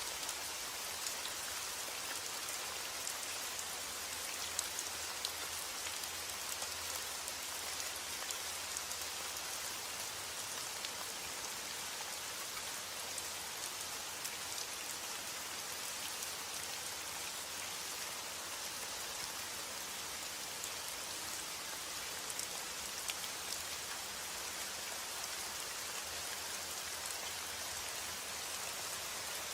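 Steady rain falling, an even hiss with many small distinct drop patters.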